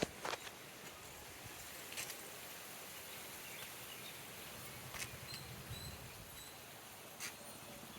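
Outdoor nature ambience: a faint steady background hiss with faint high bird chirps and four sharp clicks spread through it.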